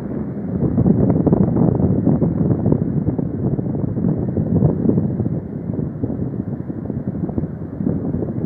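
Wind buffeting the microphone over the rumble of heavy surf, swelling and easing.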